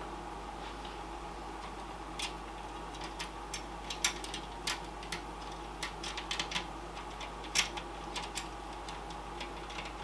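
Irregular light clicks and taps of small metal screws being handled and tried in a drive mount, over a steady background hum.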